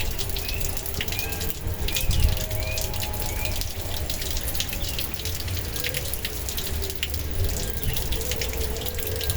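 Water running and splashing steadily, like a stream pouring from a pipe or spout, with a low rumble of strong wind on the microphone underneath.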